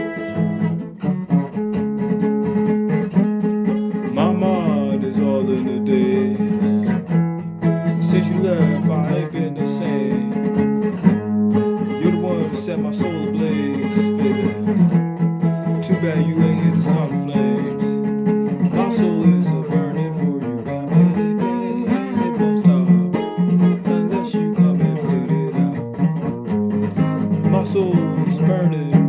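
Guitar playing: plucked and strummed notes, some sliding in pitch, over a sustained low note.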